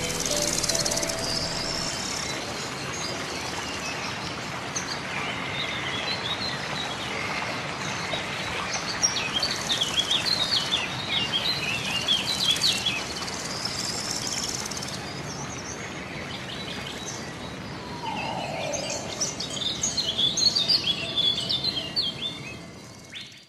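Several small birds chirping and trilling over a steady background hiss, the calls thickest in the middle and again near the end.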